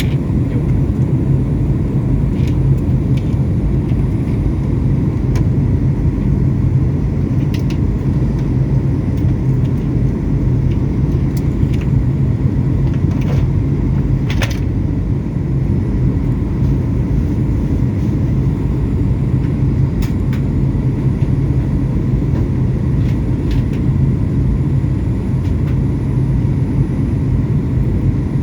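Airliner cabin noise on descent: a steady low roar of the engines and airflow, with a few faint clicks, the clearest about halfway through.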